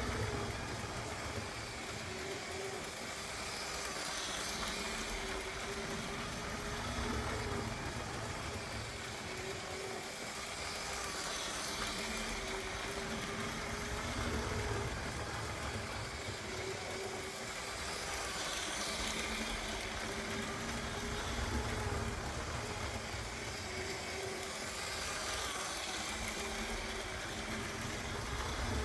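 LEGO 9V electric train running slowly around an oval track, a steady motor hum with wheel noise. The sound swells every seven seconds or so, once each lap.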